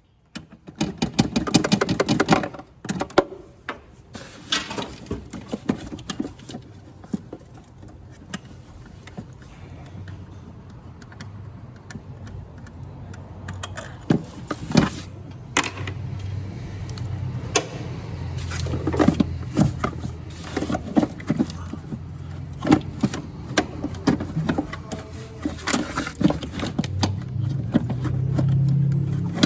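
Irregular clicks and clanks of metal hand tools at work on a vehicle, over a low steady hum that grows louder near the end.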